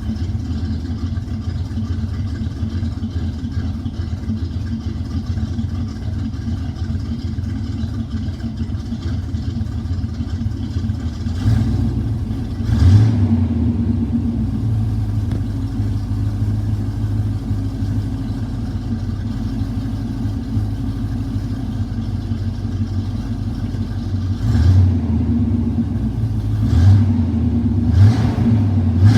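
1986 Chevy C-10's 305 small-block V8 idling steadily, then blipped with short revs of the throttle: one pair of quick revs about halfway through, and several more quick blips near the end.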